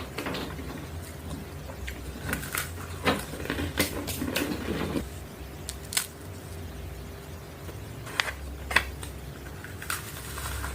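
Someone eating crunchy Imperial biscuits close to the microphone: irregular crisp crunches and clicks over a low steady hum.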